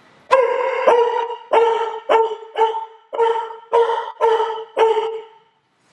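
A man imitating a bulldog's bark with his voice: about nine barks in a steady rhythm, a little under two a second, stopping about five seconds in.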